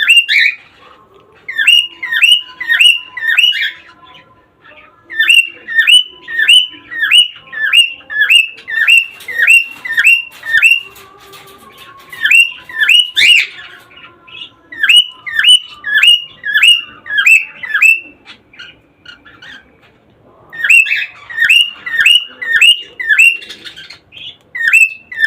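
Cockatiels calling: runs of short, sharp chirping calls, about two or three a second, in bursts of a few seconds with short pauses between them.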